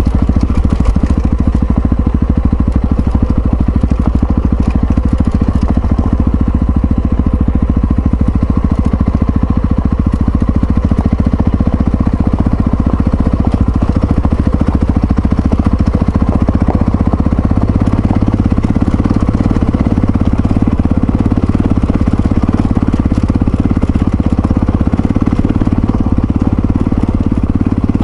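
Yamaha XT660Z Ténéré's single-cylinder engine running steadily while the bike is ridden, its pulses even throughout and its sound growing a little fuller past the middle.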